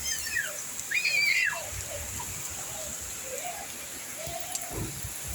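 Steady hiss of light rain falling. About a second in, a short, high call rises and falls, and a few fainter calls follow.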